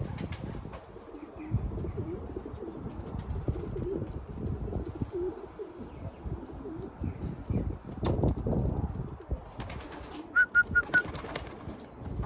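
Racing pigeons cooing, a repeated low warbling. Near the end comes a quick run of four short high peeps.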